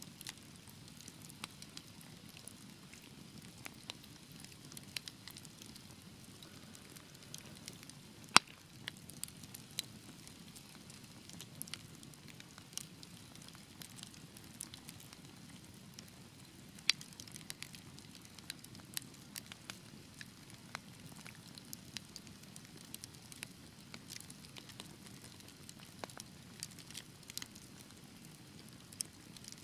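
Wood fire crackling in a fireplace: a steady low hiss of burning under irregular sharp pops and snaps, with two louder pops about eight and seventeen seconds in.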